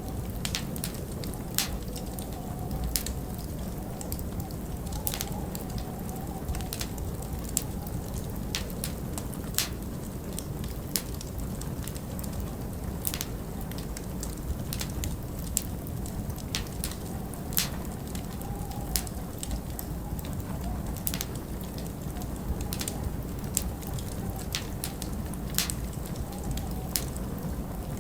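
Wood fire crackling with irregular sharp pops, a few a second, over a steady low rumble of wind.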